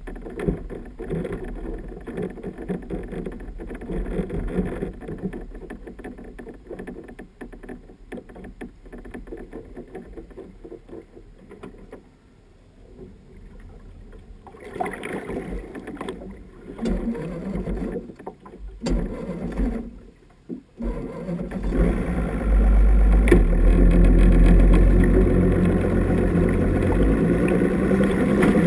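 A boat's outboard motor running on the water, with rushing water and wind noise. About three quarters of the way through it becomes much louder and steadier.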